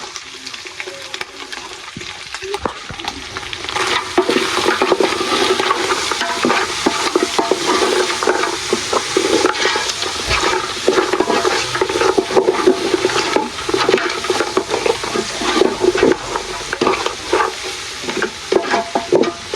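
Beef being stirred in a cooking pot, the spoon scraping and knocking against the pot over a sizzle of frying. It is quieter for the first few seconds, and the stirring starts about three and a half seconds in.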